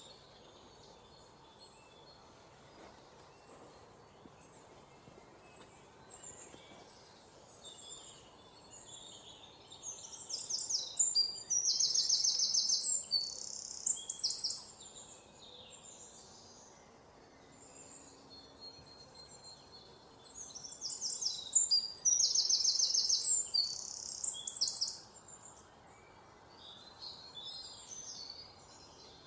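Songbird singing two loud phrases of rapid, high trilled notes, each about four to five seconds long and about ten seconds apart, with quieter scattered chirps between them over a faint steady background hiss.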